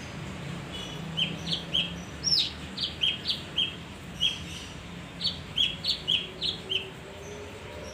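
Male kinoi songbird calling in a run of about fifteen short, sharp high chirps, one of them sweeping higher, over a steady low hum.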